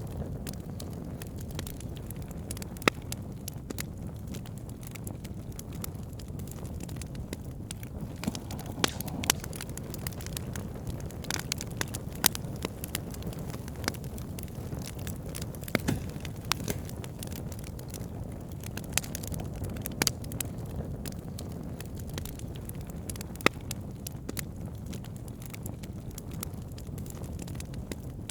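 Campfire burning: wood crackling with irregular sharp pops over a steady low rush of flames.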